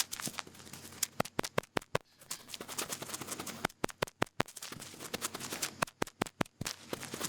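Cotton bud rubbing and scratching in an ear: irregular crackly scratching with clusters of sharp clicks.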